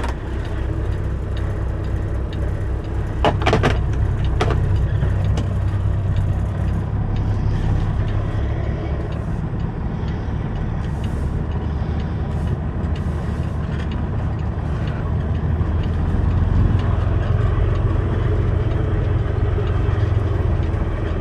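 Semi truck's diesel engine running steadily under way, a low even drone. A couple of brief clicks sound about three and four seconds in.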